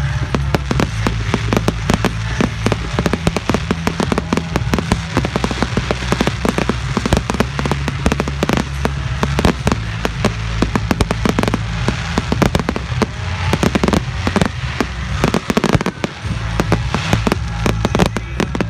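Fireworks going off in a dense, rapid string of bangs and crackles, many per second, without a break.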